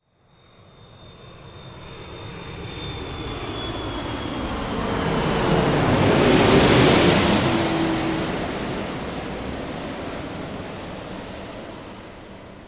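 Airplane passing overhead: its engine noise swells to a peak about halfway through and then fades. A high whine is heard on the approach, and a lower tone drops in pitch as it passes.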